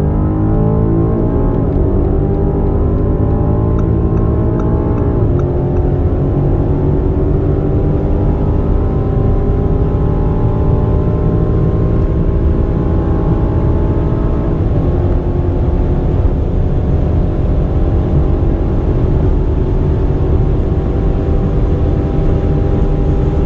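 Twin-turbo V8 SUV engine pulling hard at full throttle, its pitch climbing steadily through each gear. It drops at upshifts about 2 and 5 seconds in, then again about 15 seconds in, and holds a long high gear at high speed after that.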